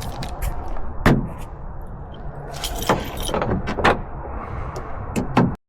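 Small metal objects clinking and clattering, a handful of sharp separate clicks over a rough background noise; it cuts off suddenly near the end.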